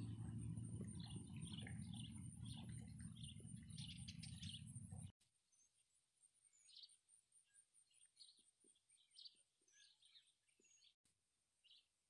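Faint chirps of small birds, scattered short calls throughout, with a low hum under the first five seconds that cuts off abruptly, and a faint high pulsing tone behind it all.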